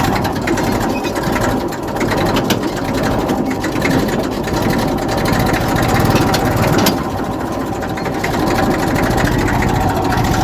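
1990 Massey Ferguson tractor's diesel engine running steadily, pulling an overloaded trailer.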